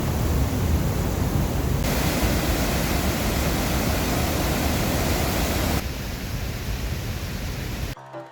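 Steady roar of rushing white water from rapids or a waterfall, changing abruptly twice as the shots cut. Music starts near the end.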